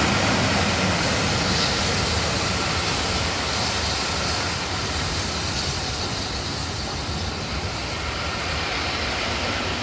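A passing train's steady rushing rumble, slowly fading.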